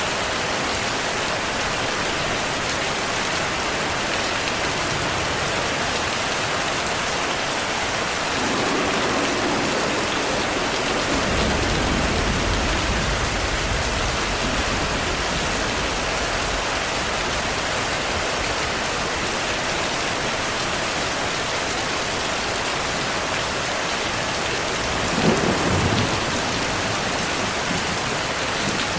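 Steady heavy rainfall. Thunder rumbles low for several seconds about a third of the way in, and a sharper, louder thunderclap comes near the end.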